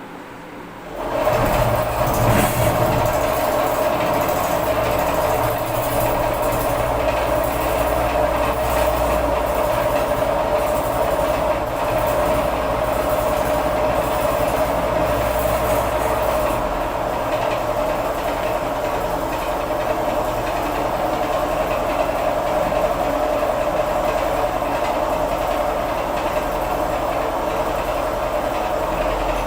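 Homemade spring-engine generator rig starting up about a second in and then running steadily, a constant whine over a mechanical rattle.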